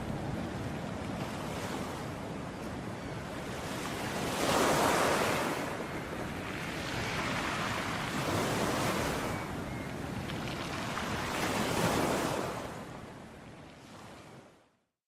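Ocean waves surging and washing ashore, swelling three times a few seconds apart, then fading out to silence near the end.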